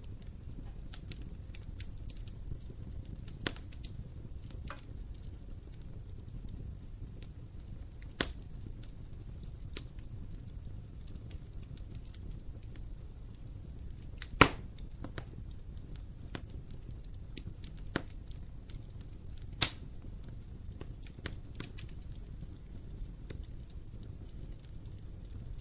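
Wood fire burning in a fireplace: a low steady rumble with scattered sharp crackles and pops, and two louder pops about halfway through and a few seconds later.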